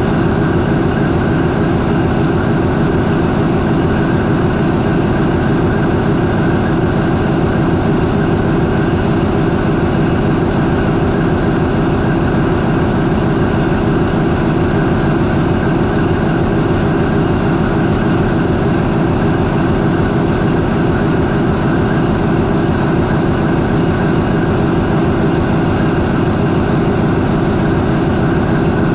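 MAN 20V28/33D STC twenty-cylinder marine diesel engine running steadily at idle, around 400 RPM, with a loud, even, rapid firing pulse.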